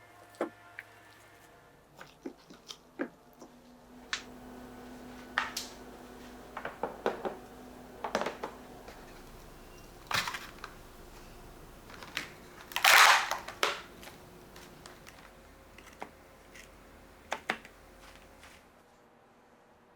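Kitchen handling sounds: scattered sharp clicks, taps and knocks of packaging and containers being handled, with one louder rustling burst about thirteen seconds in.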